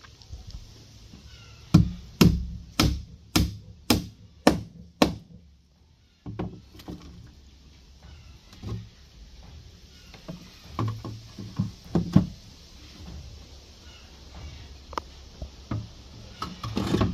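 Hammer blows on wooden column formwork: a run of seven strikes at about two a second, then a pause and scattered lighter knocks and taps.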